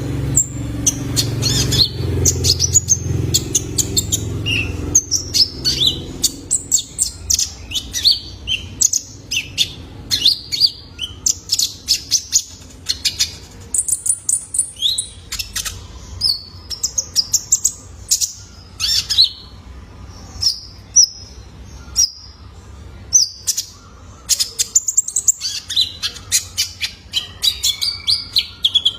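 Young male konin (kolibri ninja), a small sunbird, singing a busy run of rapid high chirps, twitters and short trills with hardly a pause. A low background hum sits under the song for the first few seconds.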